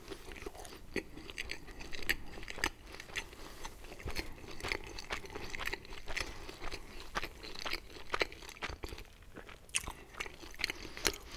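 Close-miked chewing of pizza, with irregular short crunches and clicks from the mouth.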